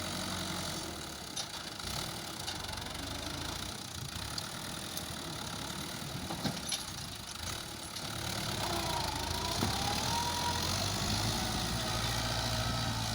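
Fiat 640 tractor's diesel engine running steadily, growing louder and a little higher in pitch about eight seconds in.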